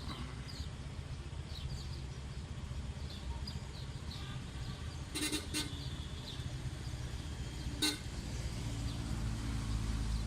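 Steady low engine hum of road traffic, with short horn toots: two close together about halfway through and one, the loudest, near eight seconds. Faint small bird chirps come and go above it.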